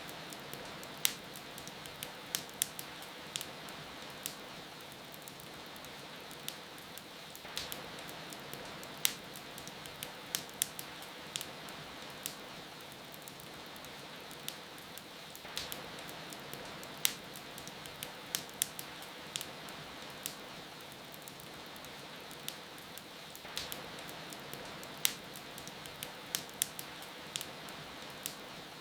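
Fireplace fire crackling with sharp, irregular pops over a steady hiss of rain. The same pattern of pops comes round about every eight seconds, as in a short loop.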